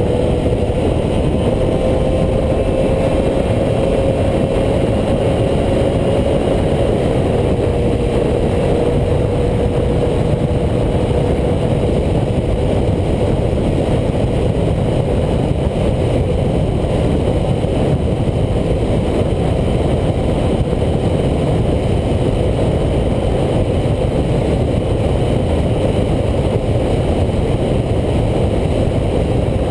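1989 Honda CBR250RR's 250cc inline-four engine held at very high revs on a flat-out top-speed run, a steady high-pitched whine that climbs slightly over the first several seconds and then holds, under heavy wind rush.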